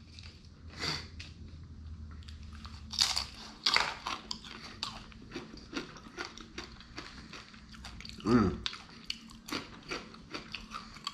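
Close-miked chewing of crunchy food, with many small crisp crunches and a short hummed murmur about eight seconds in.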